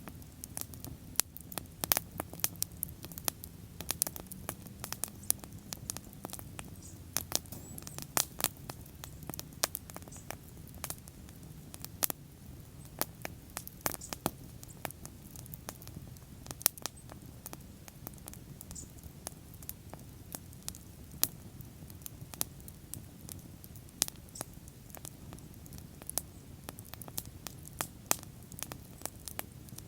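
Wood bonfire burning: sharp, irregular crackles and pops, often several a second, over a steady low rush of the flames.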